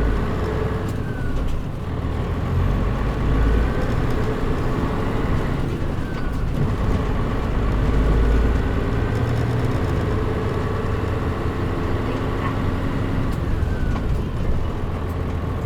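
Mitsubishi Fuso Aero Star (KL-MP37JM) city bus's diesel engine and drivetrain running while the bus drives, heard from inside, with a deep rumble and the engine's pitch shifting a few times. The air conditioning is off, so the engine is heard cleanly.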